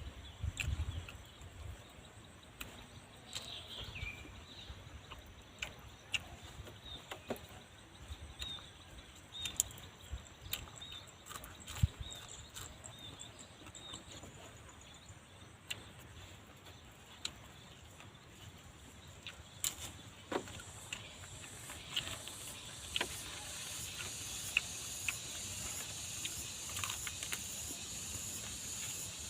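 Food grilling over an open fire: scattered clicks and crackles, with a high sizzling hiss that grows louder near the end.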